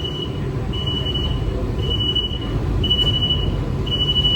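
AC suburban electric train running with a steady low rumble, while a high electronic beep sounds five times, about once a second.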